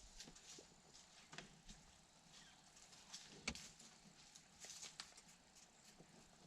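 Near silence: faint scattered clicks and rustles, with one sharper knock about three and a half seconds in.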